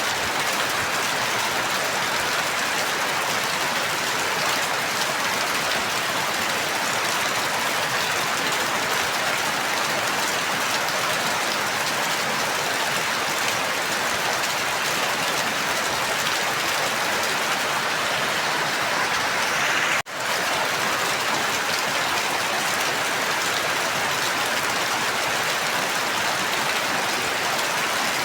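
Steady, even rain. About twenty seconds in it cuts out for an instant and fades straight back in, like a loop point in the recording.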